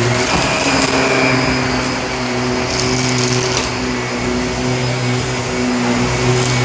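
Shark vacuum cleaner running steadily over carpet: a constant motor drone over a broad rushing hiss, with a brief surge of hiss about three seconds in.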